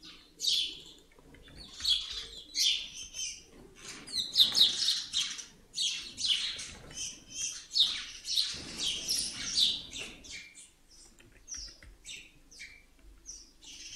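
Small birds chirping: a busy run of short, high chirps, thickest through the middle and thinning out near the end.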